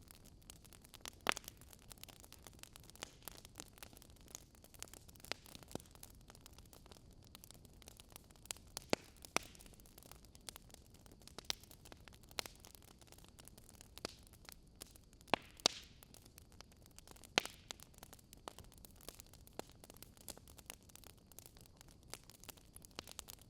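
Fireplace fire crackling: irregular sharp pops and snaps, a few of them louder, over a faint steady hiss.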